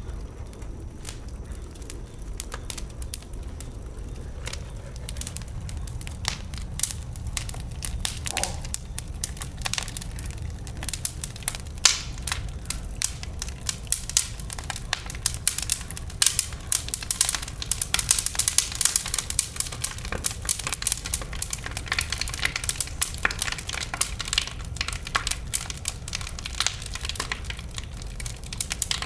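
Wood burning in a bonfire, crackling and popping with dense sharp snaps over a low steady rumble; the pops grow thicker and louder about a third of the way in.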